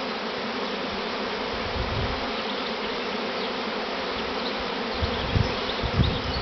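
Dense, steady buzzing of a honeybee swarm in flight all around, with a few low bumps about five and six seconds in.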